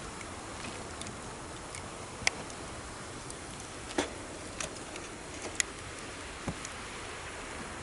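Wood campfire crackling with a few sharp pops scattered through, over the steady rush of a river.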